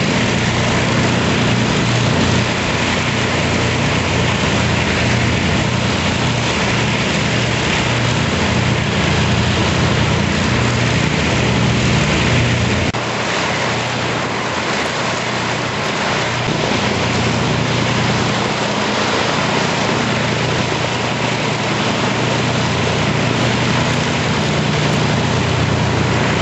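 The Avro Lancaster's four Rolls-Royce Merlin V12 piston engines running together on the ground, a steady drone with a slight drop in level about halfway through.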